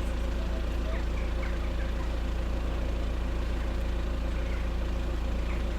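Car engine running slowly, a steady low hum heard from inside the cabin.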